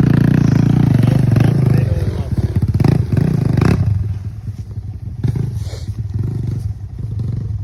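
Enduro motorcycle engine revving hard for about two seconds. It revs again briefly near the middle, then drops to a lower, uneven run.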